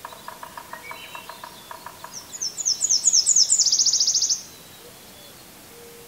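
A distant woodpecker tapping in a quick run for about two seconds, then a Nashville warbler's song, the loudest sound: a series of high, repeated down-slurred notes running straight into a fast trill that cuts off about four seconds in.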